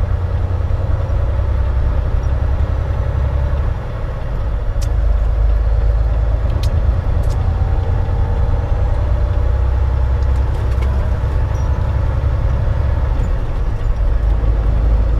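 Semi-truck running, heard from inside the cab, as a heavy steady low rumble with a faint engine tone that rises slightly about halfway through.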